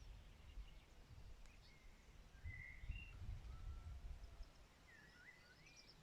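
Faint songbird calls: a few short whistled notes around the middle and a quick rising-and-falling warbled phrase near the end, over a low rumble.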